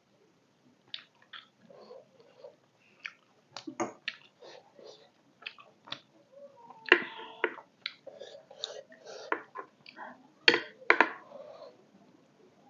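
Close chewing and eating of beef momos, with many short, sharp clicks and smacks; the loudest come about seven seconds in and again near eleven seconds.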